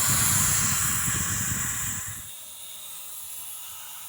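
Air hissing out of a motorcycle lift's release as it is let down. The hiss is loud for about two seconds, then drops to a fainter steady hiss.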